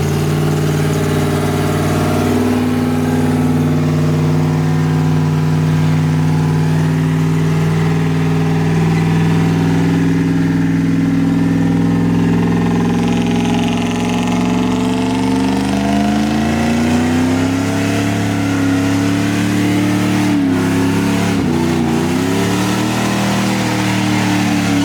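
Pickup truck engine held at high revs during a burnout: a steady high drone that climbs higher about two-thirds of the way through, dips briefly twice, then holds again.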